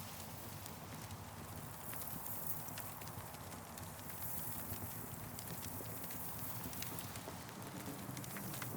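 Campfire burning: wood crackling with irregular sharp pops over a steady hiss.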